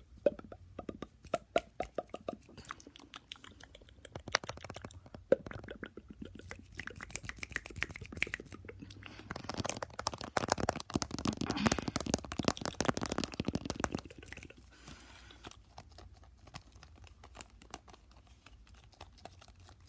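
Fast, aggressive mouth sounds: rapid clicks and smacks of the tongue and lips, coming thickest from about ten to fourteen seconds in.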